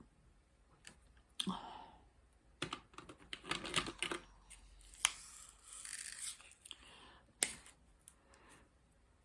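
Small objects being handled on a tabletop: scattered sharp clicks mixed with stretches of rustling and scraping.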